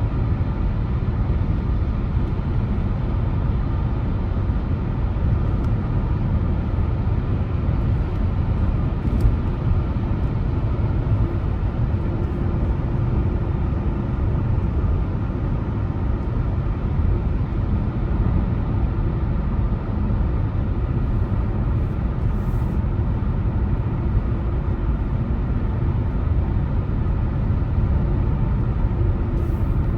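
Car driving at a steady pace: constant road and engine noise, heaviest in the low end, with no sharp changes.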